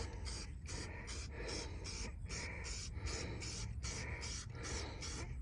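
Rapid back-and-forth scrubbing on a car's wheel rim to clean off grass and dirt, about four to five rasping strokes a second.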